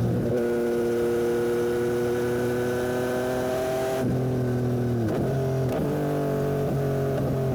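A 2021 Yamaha MT-09 SP's three-cylinder engine through an aftermarket Dominator exhaust, pulling under load. Its pitch rises slowly for about four seconds, then falls away with several short dips and rises, as through gear changes and throttle blips.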